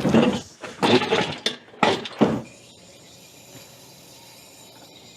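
Hand ratchet clicking in three short bursts during the first two seconds or so, then stopping.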